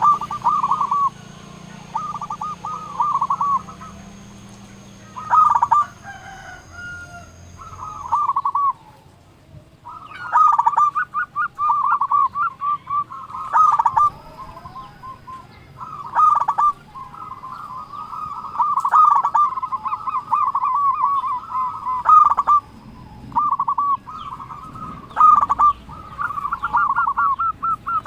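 Zebra dove (perkutut) cooing: phrase after phrase of quick rolling coo notes, with a short pause about nine seconds in.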